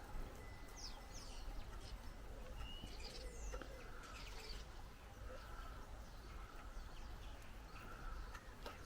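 Small birds chirping faintly, short high falling calls scattered irregularly, over a steady low background rumble.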